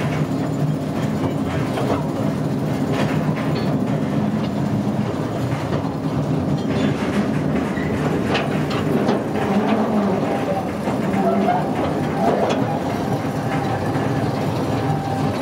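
A train running on rails: a steady rumble, with the wheels clicking over the rail joints.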